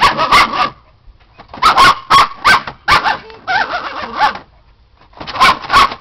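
A small dog barking in quick, frantic volleys at a wall, in four clusters with short pauses between them. She is reacting to a squeak inside the wall, which she takes for a mouse.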